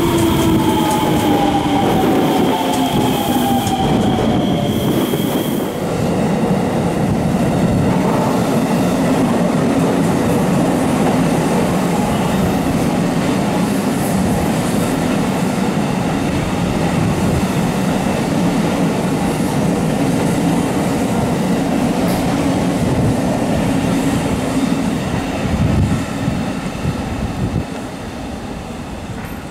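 Electric commuter trains running on the rails. In the first five seconds the motor whine of an electric train falls in pitch over a steady high tone, then a long, steady rumble of wheels on rails follows and fades near the end.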